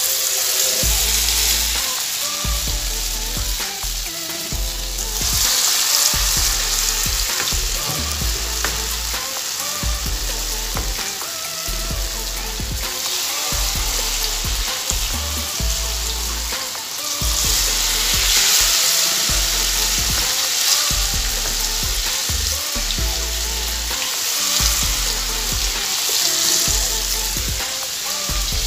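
Akara bean-batter fritters deep-frying in hot groundnut oil: a steady, loud sizzle that swells louder about five seconds in and again after about seventeen seconds.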